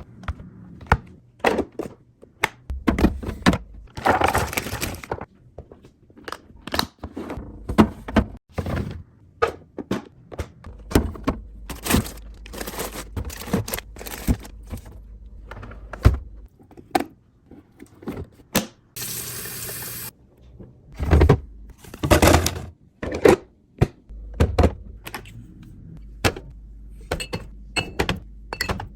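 Irregular knocks, clacks and rustles of containers and food packages being handled and set down, with one brief hissing rustle about two-thirds of the way through.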